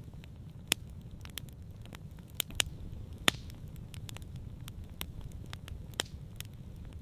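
Wood campfire crackling, with irregular sharp pops and snaps, a few of them much louder, over a steady low rumble.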